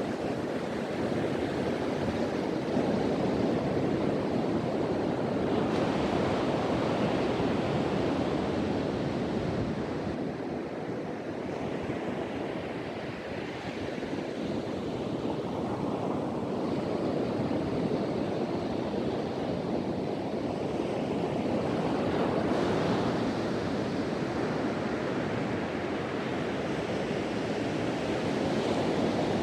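Sea surf washing onto a beach, a continuous rush that swells as waves break about six seconds in and again past twenty seconds, with wind blowing over it.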